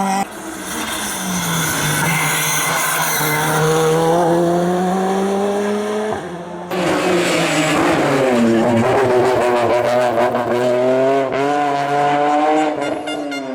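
Competition car engines at full throttle on a hillclimb. For the first six seconds the engine note climbs steadily. After a sudden cut to another car, the revs swing up and down with tyre squeal and skidding.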